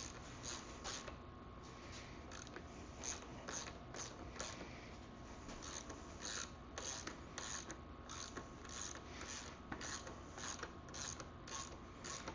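Socket ratchet clicking in short repeated strokes, about two to three a second, as it backs out a motorcycle's rear chain adjuster bolts.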